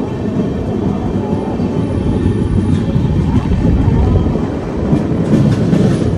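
Passenger train coach running along the track, heard from outside the coach: a steady, loud rumble of wheels on rails, with a few light clicks about five seconds in.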